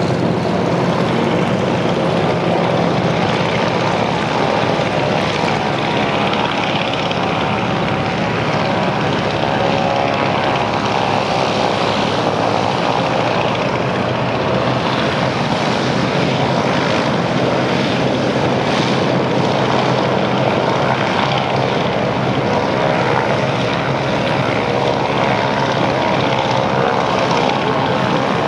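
Douglas DC-3 / C-47 Dakota radial piston engines running steadily with propellers turning, a continuous loud drone.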